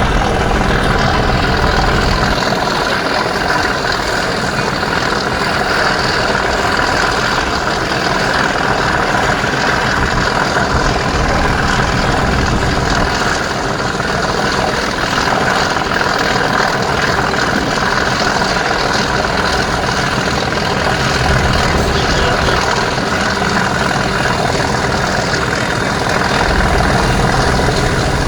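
British Rail Class 37 diesel locomotive's English Electric V12 engine running steadily.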